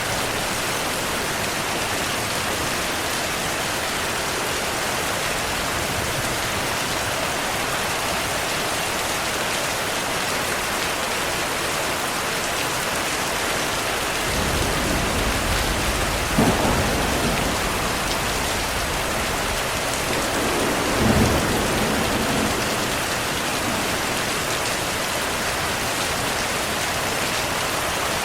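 Steady heavy rain falling, with thunder rumbling low about halfway through and swelling twice, the second peak some five seconds after the first.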